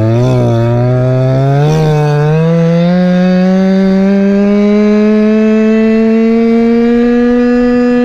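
Goped scooter's Chongyang CY26RC 26cc two-stroke engine accelerating: its pitch climbs steadily over the first three or four seconds, then it runs steadily at high revs.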